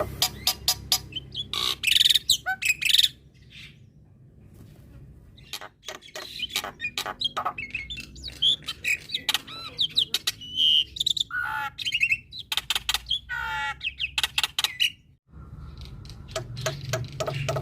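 Male black-winged myna (jalak putih) singing a varied chattering song of rapid clicking strokes, harsh notes and whistled glides, with a quieter stretch about three seconds in and a brief break near the end.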